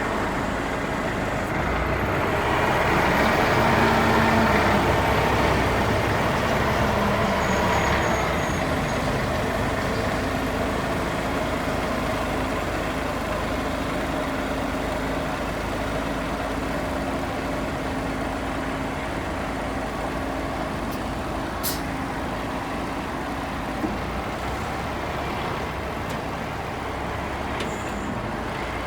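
Cummins 350 diesel engine of a 1980 International crane truck running steadily with the PTO engaged to drive the crane. About two seconds in it grows louder for several seconds, then settles back to a steady run.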